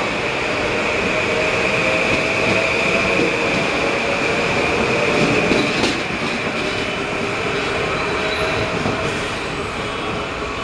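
Metro-North M8 electric multiple-unit train pulling out and passing close by, its wheels running on the rails with a steady high whine over the rumble. The sound eases a little about six seconds in as the last car goes by and the train draws away.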